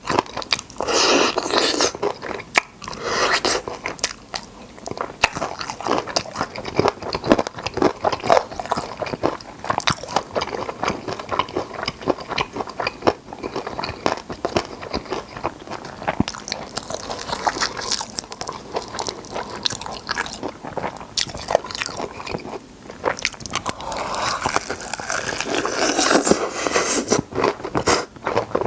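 Close-miked biting, crunching and chewing of crispy seasoned fried chicken drumsticks: many small crackling crunches, louder near the start and again near the end.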